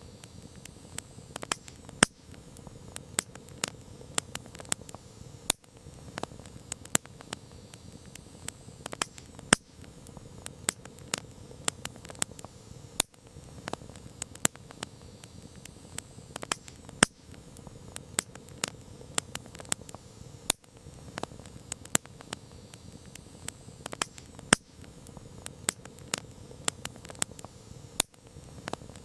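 Campfire crackling: frequent sharp, irregular pops and snaps of burning wood over a steady low hiss of the flames.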